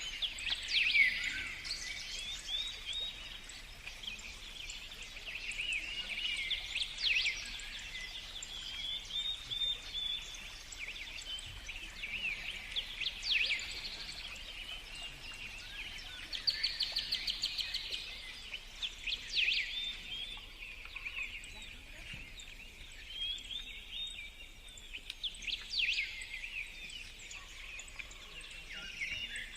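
Songbirds singing: a steady chorus of overlapping high chirps and trills, with louder, sharp falling notes every few seconds.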